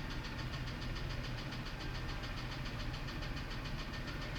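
2000 Ford F-150 engine idling with a steady, rapid ticking: a noise the technician says almost sounds like valve train, on an engine that also has a misfire.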